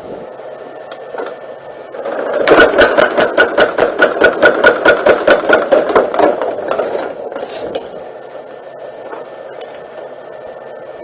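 Motor-driven forging hammer running with a steady motor hum and, from about two seconds in, striking fast, even blows, about six a second, for roughly four seconds before the strikes stop and only the hum remains.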